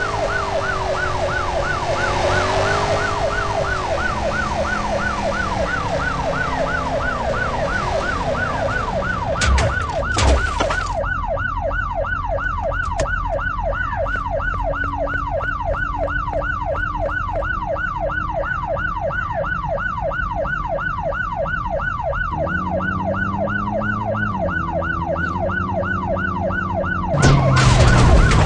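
Siren with a fast up-and-down warble, about three sweeps a second, sounding without a break. Slow, held lower tones run beneath it. Short bursts of noise come about ten seconds in, and a louder one comes near the end.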